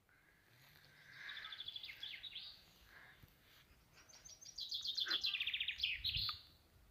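A songbird singing: two phrases of rapid repeated high notes, the second, about four seconds in, louder and faster.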